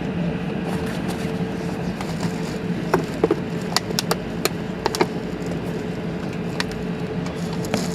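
Steady Airbus A380 cabin noise: a continuous rush with a low hum. A cluster of short, sharp clicks or rattles comes about three to five seconds in, and another two follow near the end.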